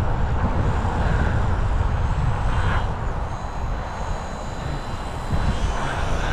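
Strong gusting wind buffeting the microphone, a heavy uneven rumble that eases a little around the middle and picks up again near the end.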